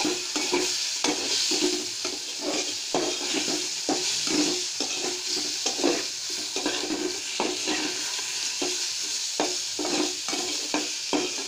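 Boiled pumpkin peel frying in a little oil in a metal pot, sizzling steadily while it is stirred, with repeated scrapes and knocks of the stirring utensil against the pot.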